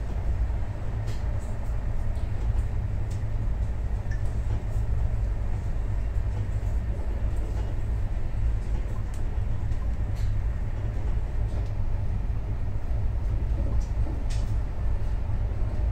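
Running noise of a moving passenger train heard from inside the coach through its closed glass window: a steady low rumble with a few faint clicks and rattles scattered through it.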